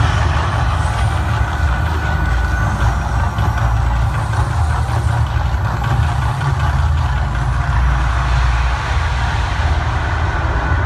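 Man-made volcano show's eruption effects: a loud, steady rumbling roar with a heavy deep rumble underneath.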